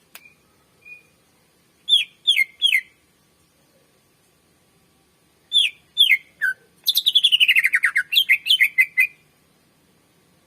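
Cucak ijo (greater green leafbird) singing: two groups of three loud, sharp down-slurred whistles, then a fast trill that slides down in pitch and runs into a quick string of notes before stopping.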